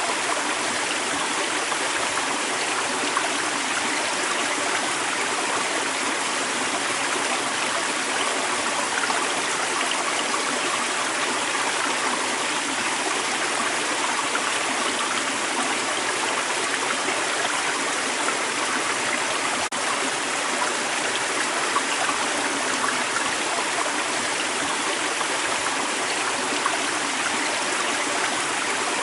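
A creek's running water, a steady, even rush and babble, with one momentary dip about two-thirds of the way through.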